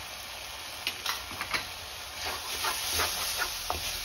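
Onion-tomato masala sizzling and steaming in a kadai with a little water added, while a wooden spatula stirs it, giving scattered short scrapes and knocks against the pan over a steady hiss.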